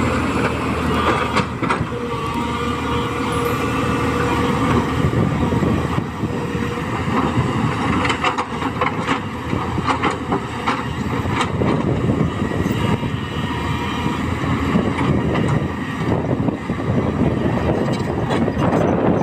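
Tata Hitachi EX200 LC excavator's diesel engine running steadily under working load while it digs and loads mud, with scattered knocks and clatter in the middle stretch.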